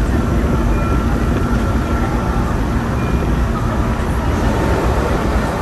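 Keihan electric train running along the track, heard from inside the front of the train: a steady rumble of wheels on rail, with a faint high tone coming and going.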